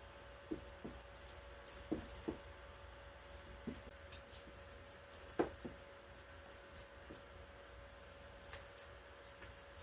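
Irregular light clicks and taps, about a dozen scattered through, the loudest about five and a half seconds in, over a faint steady hum.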